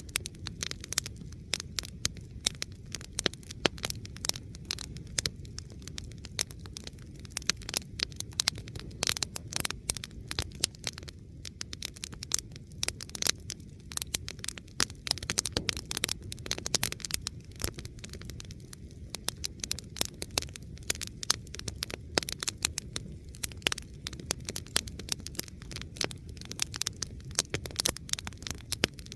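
Campfire of burning wood crackling, with frequent sharp pops and snaps over a steady low rumble.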